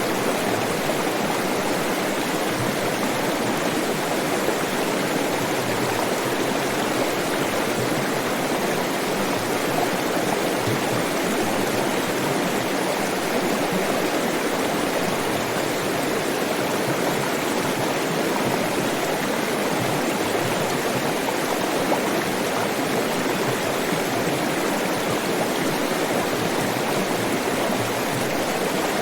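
Flowing water in a stream, rushing and splashing steadily without letup.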